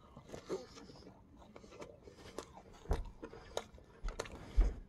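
A person biting into and chewing a fried chicken sandwich on glazed donut buns: irregular soft crunches and mouth clicks, a few louder near the end.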